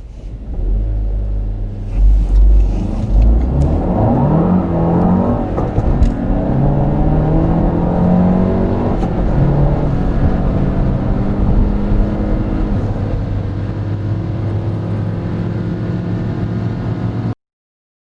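Turbocharged four-cylinder petrol car engine accelerating hard from a standstill, its pitch rising quickly through the gears, then running on more steadily. It cuts off suddenly near the end.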